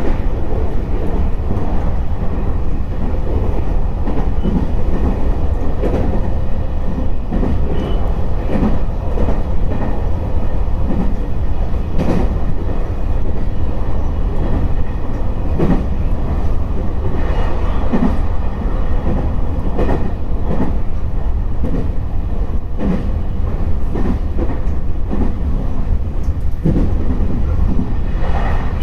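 Two-car electric rapid train running along the line, heard from on board: a steady low rumble of wheels on rail, with irregular clacks as the wheels cross rail joints.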